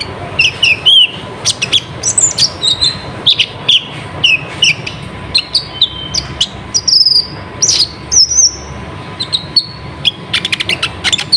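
Brown-throated sunbird (kolibri ninja) singing a fast, busy song of short high chirps, quick sweeping whistles and a rapid clicking run near the end.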